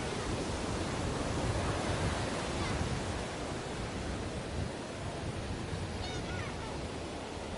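Ocean surf washing on a beach, a steady rush of breaking waves with no single distinct crash.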